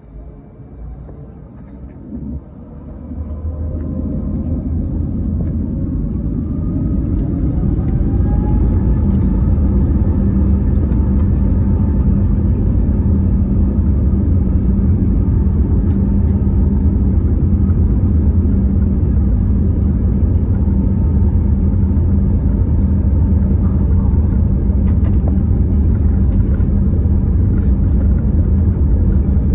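Airbus A321neo's CFM LEAP-1A turbofan engines spooling up to takeoff thrust, heard inside the cabin: a rising whine over a growing rumble in the first several seconds, then a steady loud rumble as the aircraft rolls down the runway.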